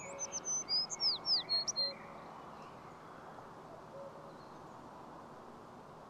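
A songbird sings one short phrase of quick high whistled notes with downward slurs, lasting about two seconds, over a soft steady forest background hiss.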